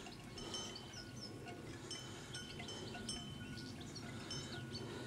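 Cowbells on a herd of cows clanking irregularly as the cows are walked along, short ringing notes at a few fixed pitches.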